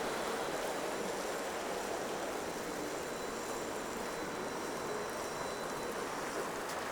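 Steady downtown city ambience: an even wash of traffic noise, with tyres on wet, snowy streets.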